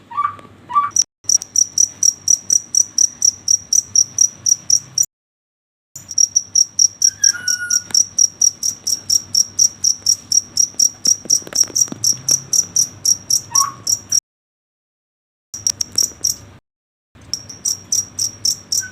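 Cricket chirping in a fast, even pulse of about four chirps a second, high-pitched and loud. A few short whistled chirps come in now and then. The sound cuts out abruptly a few times and resumes.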